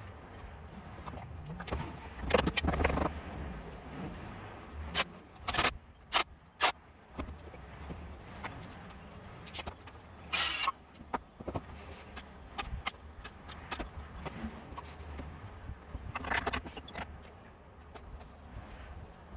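Intermittent clinks, knocks and scrapes of hand work with tools and building materials, with a few short, louder noisy bursts.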